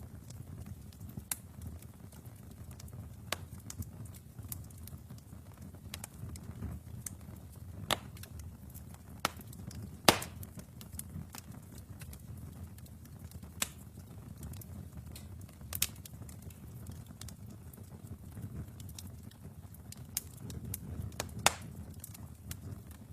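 Wood fire burning in a fireplace: a low steady rumble of flames with sharp, irregular crackles and pops, the loudest about ten seconds in and again near the end.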